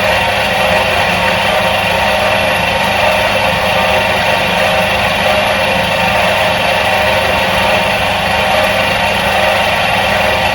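Electric motor of a 1977 Soviet washing machine running at constant speed: a low hum under a steady, mid-pitched whirr that never changes.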